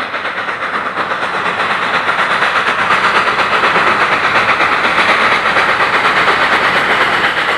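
Train sound effect: a steady rushing clatter with a quick, even rhythm that grows louder over the first few seconds and then holds.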